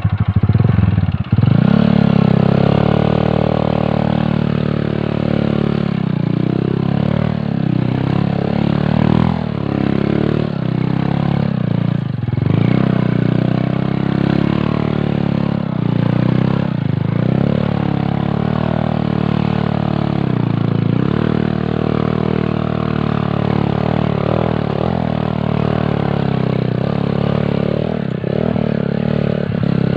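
Honda XRM 125 motorcycle's single-cylinder four-stroke engine running, its revs rising and falling unevenly, with a brief drop in loudness about a second in.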